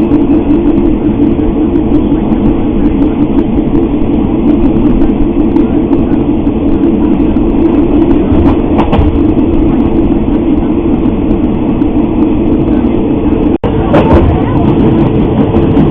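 Passenger train running with a steady rumble, broken by a momentary cut near the end.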